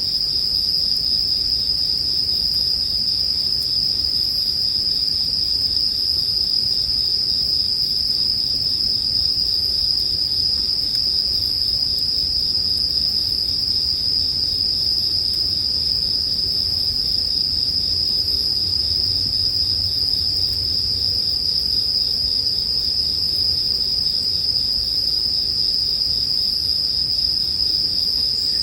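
Japanese bell crickets (suzumushi) trilling without a break, a single steady high-pitched ring, over a soft low rumble.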